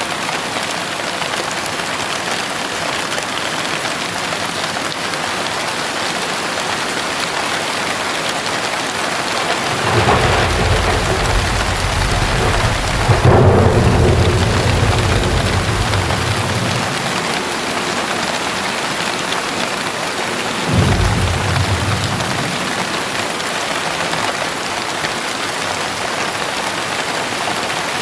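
Heavy rain falling steadily, with a low rumble of thunder that builds about ten seconds in, peaks a few seconds later and fades, then a second, shorter rumble a little past twenty seconds.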